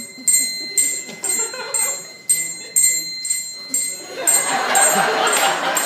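A small hand bell is struck over and over by a trained parrot, about twice a second, counting out a number with its rings. About four seconds in, a louder wash of noise joins the ringing.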